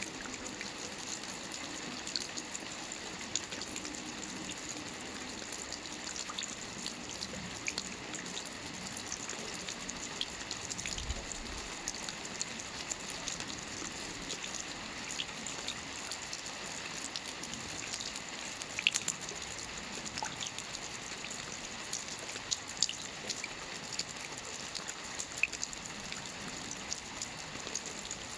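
Soft rain falling on a roof: a steady hiss of rainfall with many small individual drop ticks, a few of them louder.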